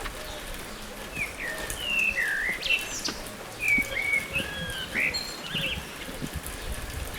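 Birds calling: a series of short whistled chirps and gliding notes, bunched together from about a second in until a little past the middle.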